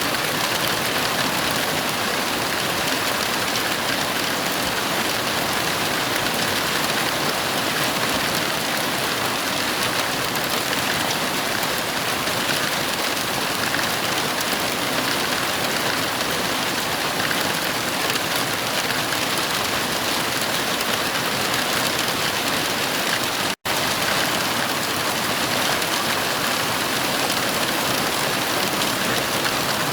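Heavy rain falling in a steady, even hiss with no thunder, broken by a split-second dropout to silence about three-quarters of the way through.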